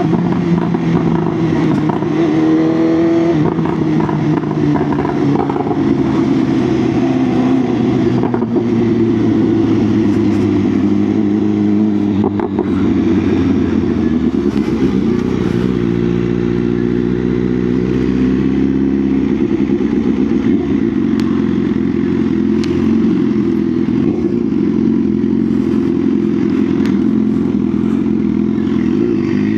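BMW S1000R's inline-four engine running under way, mostly at steady revs. The pitch falls in the first few seconds and rises and falls again about halfway through as the throttle and gears change.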